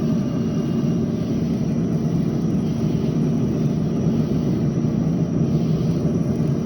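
A steady low rumble with no clear events in it.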